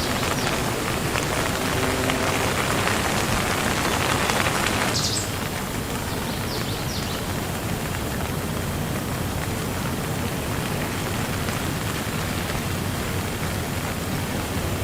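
Steady rain falling, a dense patter of drops; the heavier part of the patter eases about five seconds in and the rain carries on more softly.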